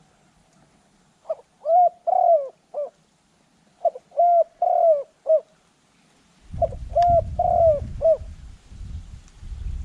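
Spotted dove cooing: three phrases of four short notes each, a second or so apart. A low rumble comes in about two-thirds of the way through.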